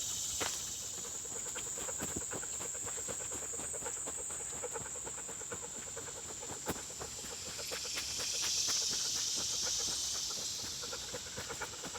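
Steady high-pitched drone of crickets, with the hiker's irregular footsteps on a muddy trail; a broader high hiss swells and fades about two-thirds of the way through.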